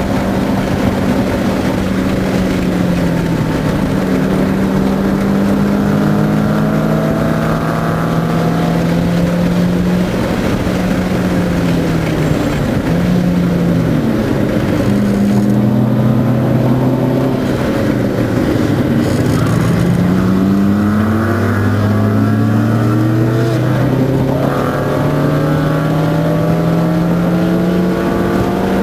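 Car engine heard from inside the cabin while being driven hard on a racetrack, its pitch climbing and then dropping again and again through the lap, over steady road and wind noise.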